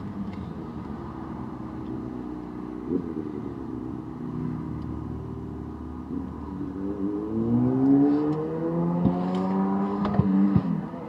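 A car engine outside accelerating, its pitch rising for about three seconds from midway, then dropping off suddenly near the end, over a steady low hum, heard from inside a parked car.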